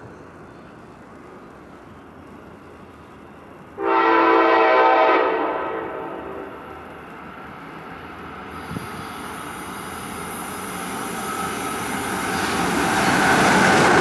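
A train horn sounds one chord blast of about two and a half seconds, a few seconds in. Then the approaching train's rumble and wheel-on-rail noise grows steadily louder toward the end.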